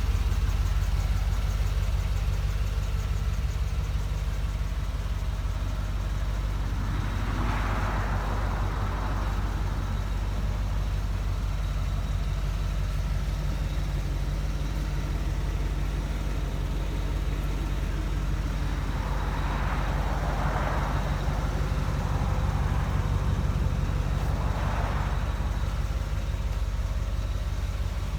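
1982 Corvette's 350 (5.7 L) Cross-Fire Injection V8 running steadily at idle, with a few brief rushes of higher-pitched noise over it.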